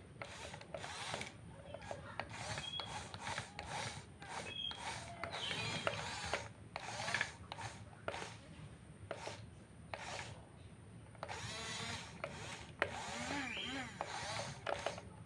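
Small electric motors of radio-controlled earthmoving models (an RC excavator and bulldozer) whining as they work, mixed with repeated scraping and knocking of soil and parts. The whine rises and falls in pitch a few times near the end.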